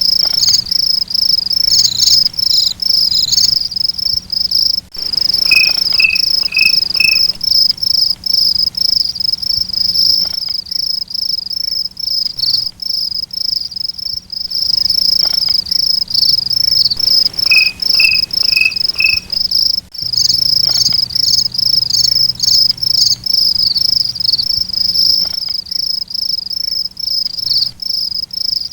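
Crickets chirping in a fast, continuous high-pitched trill. Twice a lower chirp joins in short runs of four notes.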